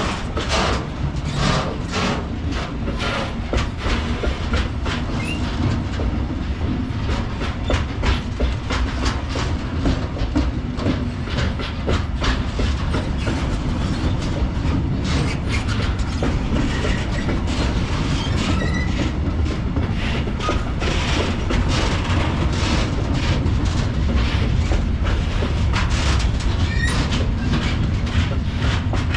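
Freight train rolling past, its wagon wheels clicking repeatedly over the rail joints above a steady low rumble.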